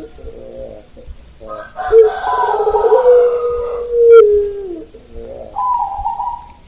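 A rooster crowing once, loud, its long final note held and then falling away, with a zebra dove (perkutut) cooing more quietly before and after the crow.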